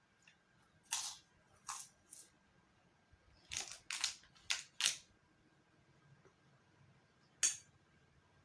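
Eating sounds: a string of short, crisp, noisy bursts, three about a second in, a quicker cluster of four around the middle, and one more near the end.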